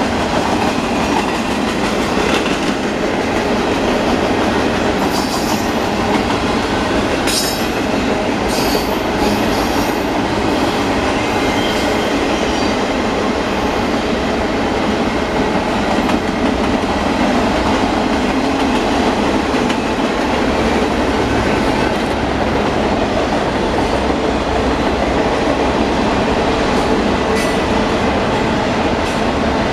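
Union Pacific double-stack intermodal freight train rolling past, a steady loud rumble of wheels on rail. A few brief high-pitched ticks come between about five and ten seconds in.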